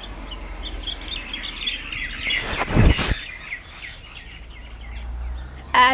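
Several birds chirping in quick short notes, with a brief loud rush about three seconds in.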